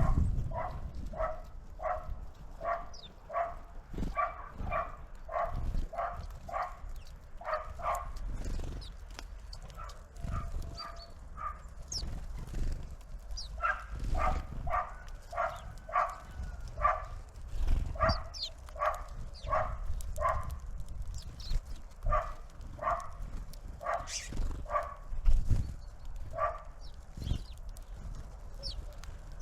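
An animal calling over and over in short, evenly spaced calls, about two a second, with a pause partway through. Thin high chirps of small birds sound now and then.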